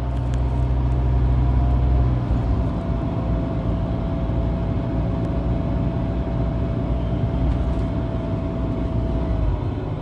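Loud, steady low drone and rumble inside a Toyota HiAce van's cabin while driving, with a thin steady whine over it that fades out near the end. The owner suspects a worn rear hub bearing.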